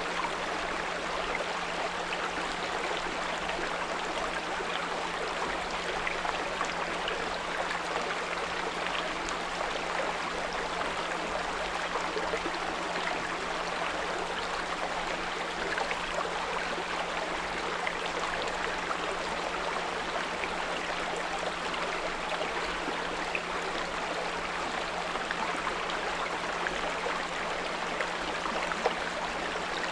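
A small brook flowing steadily, with a constant low 174 Hz pure tone underneath.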